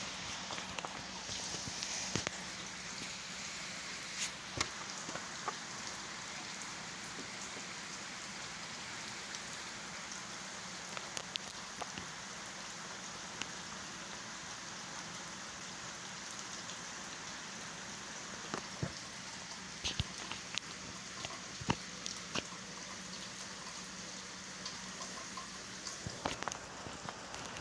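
Steady rain falling, with scattered sharp drips tapping on a nearby surface now and then.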